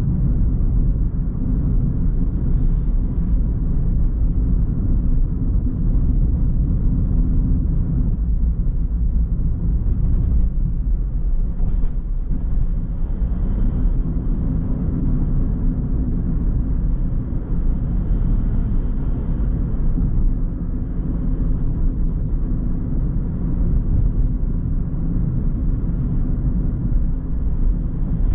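A car being driven at a steady pace: a continuous low rumble of engine and road noise.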